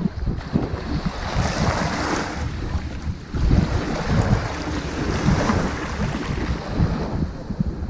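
Ocean waves washing up on a sandy beach: a steady surf hiss that swells twice, about a second in and again around the middle, over a low, gusting rumble of wind on the microphone.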